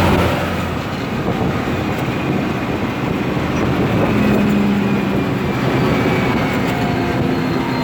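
Deutz-Fahr Agrotron 150.6 tractor's six-cylinder diesel engine running, a loud mechanical noise whose steady low hum drops away about a second in.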